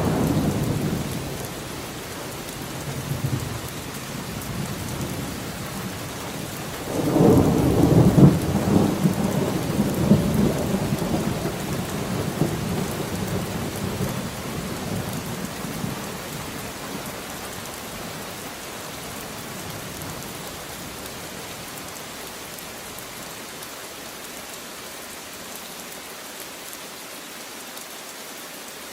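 Steady rain falling, with rolls of thunder: one dying away at the start, and a louder low roll about seven seconds in that fades out slowly over several seconds, leaving only the rain.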